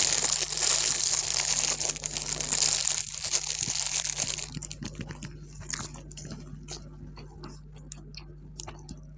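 Crinkling, rustling handling of food wrapping for about four and a half seconds, then scattered crunchy chewing and small clicks.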